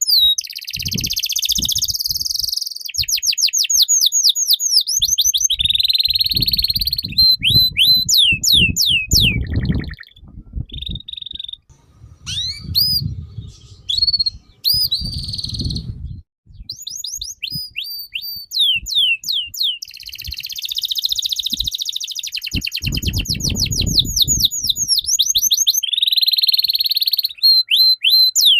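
A songbird singing loudly in long, fast runs of repeated downward-sweeping whistles and buzzy trills, with a sparser stretch of single calls about halfway through. Low rumbles sound underneath at times.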